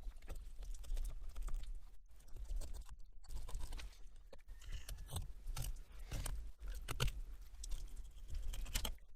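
A knife cutting along a rockfish to fillet it, with irregular crunching and crackling clicks as the blade works through flesh and bone.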